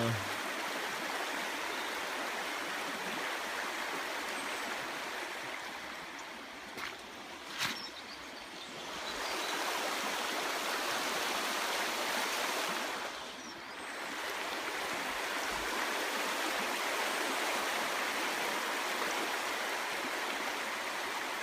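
Shallow river running, a steady rush of water that eases briefly twice, with a couple of sharp clicks about seven to eight seconds in.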